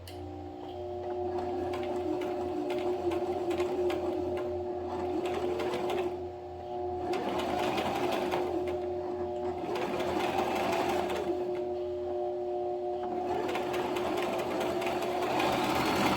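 Electric sewing machine running and stitching steadily, with a brief dip in level about six seconds in.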